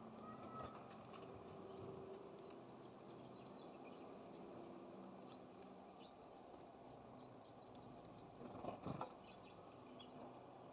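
Near silence: faint outdoor ambience with a low steady hum, scattered faint ticks, and a short soft rustle about nine seconds in.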